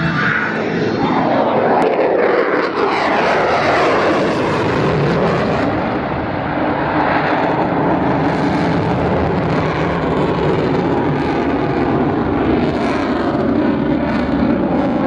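F-22 Raptor's twin F119 afterburning turbofan engines, loud jet noise as the fighter passes: the pitch sweeps down over the first few seconds, then settles into a dense, steady jet rush.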